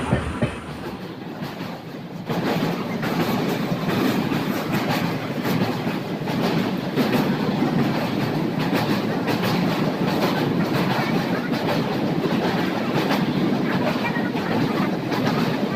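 Passenger train running at speed over a steel truss bridge, heard from an open coach window: a steady rumble with rapid clicking of wheels over the rails. It is quieter for the first two seconds, then louder from about two seconds in.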